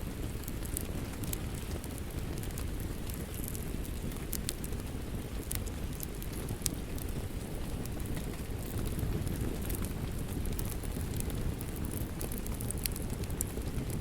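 Wood fire crackling with irregular sharp pops, over a steady low wash of rain.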